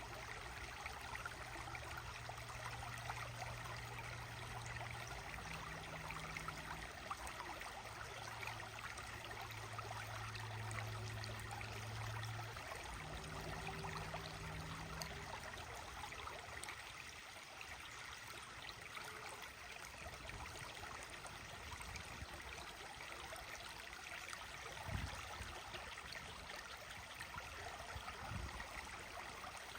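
Steady rushing of running water, like a stream, with a low steady hum through the first half and two soft thumps near the end.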